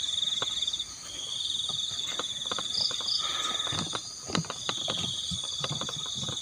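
Night insects, crickets by the sound of it, trilling in long pulsing runs broken by short pauses, with a few faint clicks and knocks close by.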